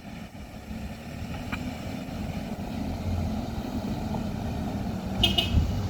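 Heavy vehicle engine running steadily, growing louder over the first couple of seconds, with a brief high-pitched squeal about five seconds in.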